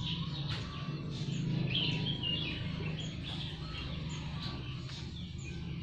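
Small birds chirping and twittering in short, quick high notes, over a steady low background hum.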